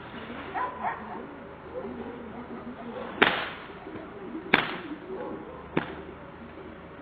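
Three sharp bangs, about a second and a half apart, over a faint murmur of distant voices.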